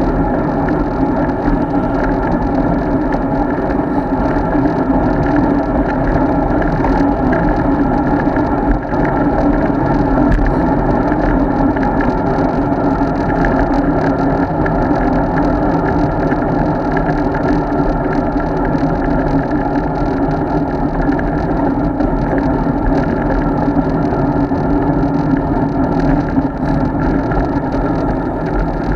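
Steady rumble of wind and tyre-on-road noise from a road bike being ridden, as picked up by the action camera riding along with it.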